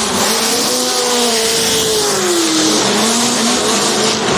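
Drift car engine at high revs with tyres squealing, a continuous loud hiss of tyre noise; the engine note sags about a second in, then climbs again near the end.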